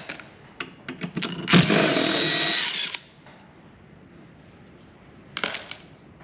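Power drill running for about a second and a half, driving a 4 mm hex bit to back out an Allen screw in the table saw. There are a few clicks before it and a short rattle of clicks near the end.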